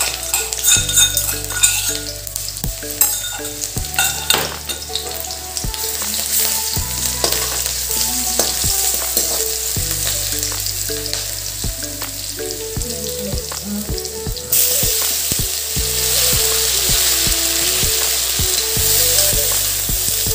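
Onions and spices sizzling in hot oil in an aluminium kadai, with a spatula clicking against the pan as it stirs. About fourteen seconds in, the sizzle jumps suddenly louder and stays loud as pieces of pork go into the hot oil.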